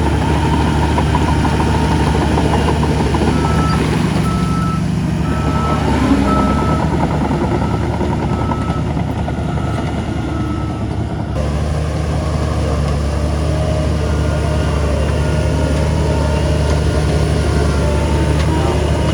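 Heavy diesel engines of earthmoving machinery running steadily, with a vehicle's reversing alarm beeping at an even pace from a few seconds in until about halfway through.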